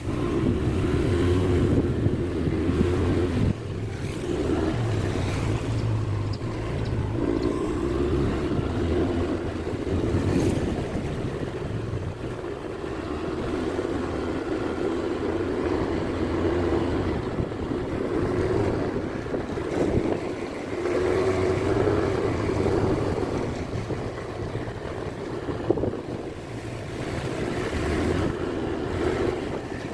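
Honda Click 125i scooter's single-cylinder engine running while riding, with wind buffeting the microphone; the engine note swells and eases as it goes.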